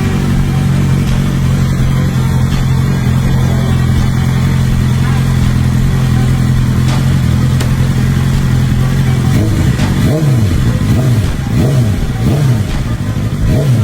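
BMW S1000RR's inline-four engine idling steadily, then revved in a series of quick blips from about nine and a half seconds in, the pitch rising and falling with each one.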